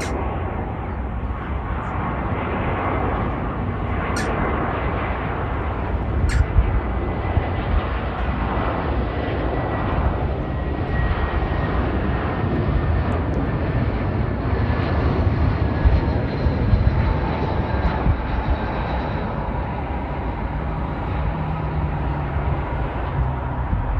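Jet airliner engines running: a steady rumble and rush with a faint whine that slowly falls in pitch.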